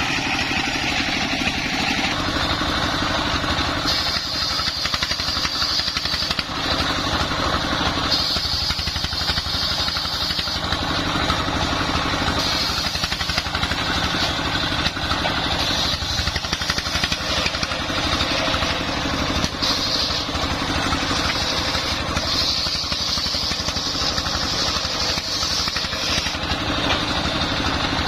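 Dongfeng 24 hp diesel engine running steadily, driving a home-built circular saw, with a higher whine that comes and goes several times as the saw works.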